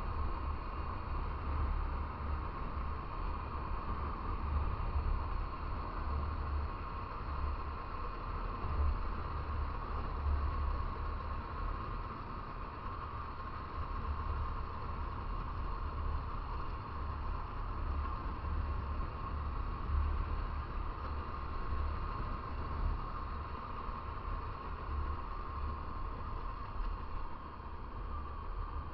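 Wind buffeting the microphone in a strong, uneven low rumble over the steady running of a motorcycle and its road noise while riding.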